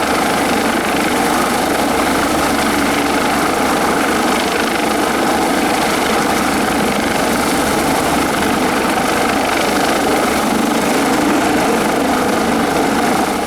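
Loud, steady engine noise that holds without a break and drops off at the very end.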